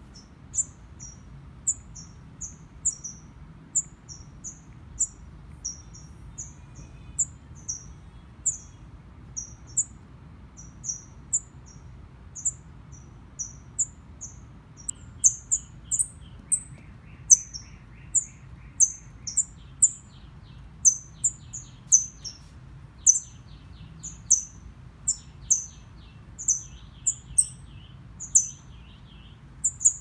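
A fledgling songbird calling: short, high, thin chirps repeated about once or twice a second, growing louder about halfway through. From about halfway a fainter, lower twittering trill joins in.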